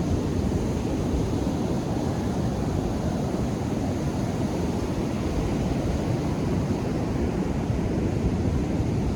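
Atlantic Ocean surf breaking on the beach: a steady, low wash of waves with no distinct single crash standing out.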